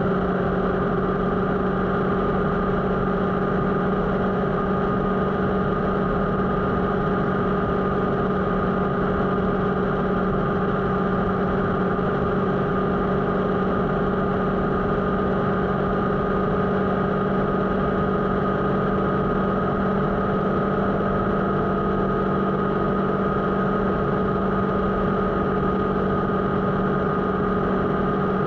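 Motorcycle engine running steadily at constant revs, its pitch holding level throughout.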